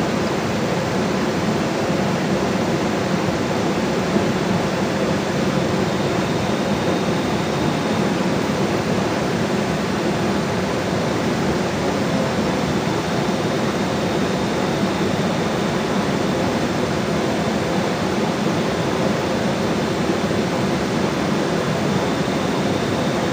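Steady, even rush of water with no breaks or single events.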